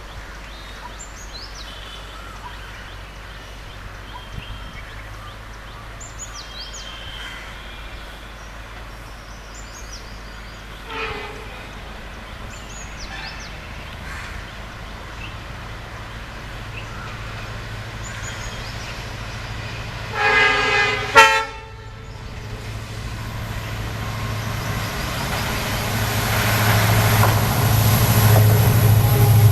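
A passenger train's locomotive horn sounds briefly about eleven seconds in, then blasts louder about twenty seconds in. The train then approaches, its rumble growing steadily louder, with a high steady whine above it. Small birds chirp faintly in the first half.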